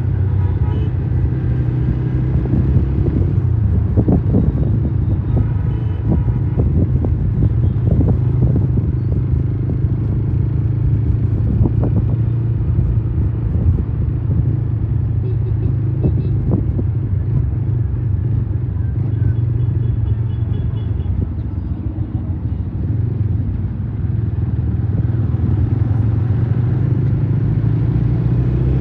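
A motorcycle riding in road traffic, heard as a steady low rumble with a few brief knocks.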